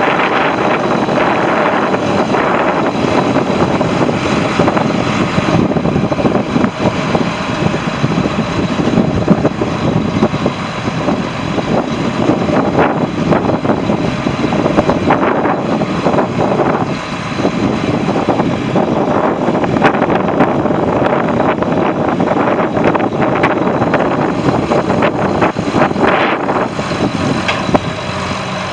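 John Deere 8640 4x4 tractor's turbocharged six-cylinder diesel engine running steadily, loud and rough, with a brief dip in level about two thirds of the way through.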